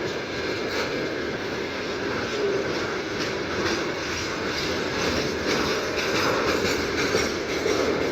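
Freight train wagons rolling past, a steady rumble of wheels on the rails with faint clatter at the rail joints.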